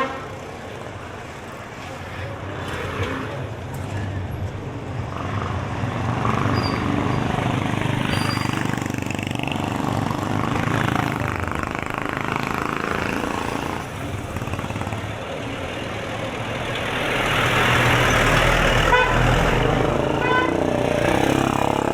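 Busy town street: passing vehicle traffic and the voices of people around, growing louder as a vehicle goes by in the last few seconds.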